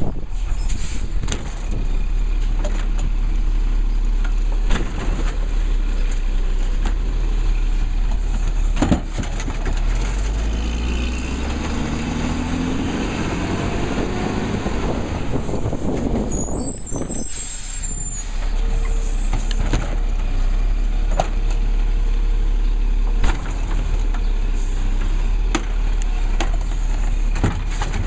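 Labrie Cool Hand garbage truck running, its engine speeding up and dropping back about halfway through, with scattered knocks and clanks and a brief high squeal just after.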